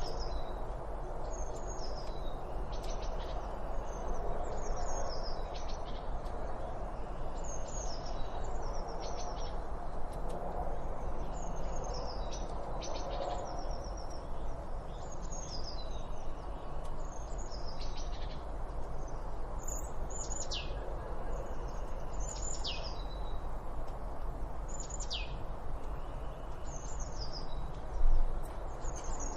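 Wild birds chirping and calling in short high notes, with several long falling whistles in the second half, over a steady background rush of outdoor noise. There is a brief louder burst near the end.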